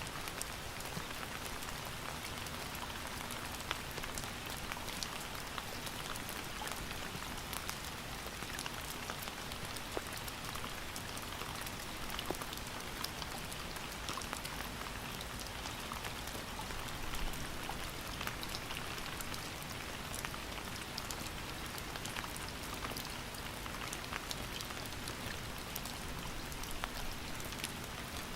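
Steady rain falling, with many distinct drops ticking on a surface over an even hiss.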